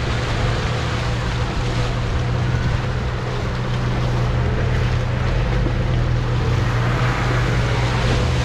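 Off-road vehicle engine running steadily with a constant low hum, under a broad rushing noise.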